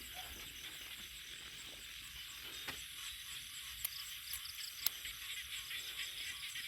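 Outdoor rural ambience of insects chirring in a steady high-pitched chorus, with a few faint sharp clicks.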